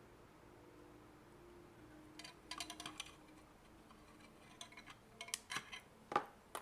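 Small hard clicks and clinks of the opened adapter's parts being handled, in several short clusters, the loudest near the end, over a faint steady hum.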